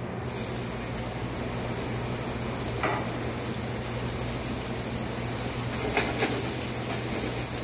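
Shrimp sizzling in hot olive oil in a frying pan. The sizzle starts suddenly as they go in, over a steady low hum, with a few light knocks from a spatula.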